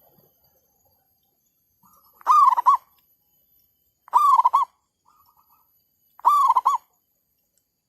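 Zebra dove cooing: three loud, rolling coos about two seconds apart, each a quick run of short notes, with fainter stuttering notes between them.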